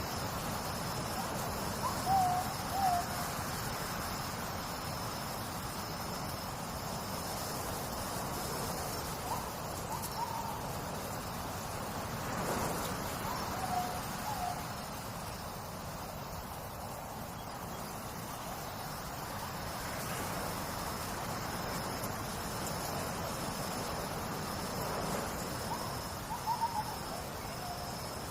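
Short bird calls in twos and threes, a couple of seconds in, around the middle and near the end, over a steady background of trickling water and a thin, high, continuous trill.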